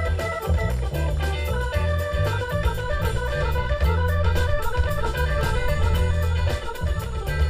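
Live band playing a funky groove: an organ takes a solo of running melodic notes over a steady bass line and drums.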